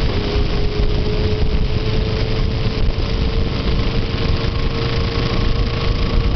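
Motorcycle engine running with a steady note that creeps up slightly, over a heavy, constant low rumble.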